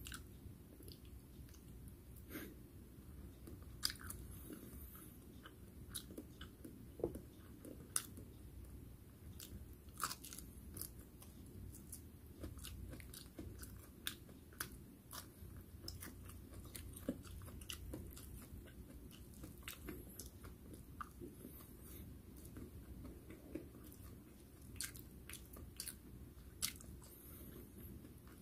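A person chewing fried food close to the microphone, with many small wet mouth clicks and scattered sharp clicks, the loudest about 4, 8 and 10 seconds in.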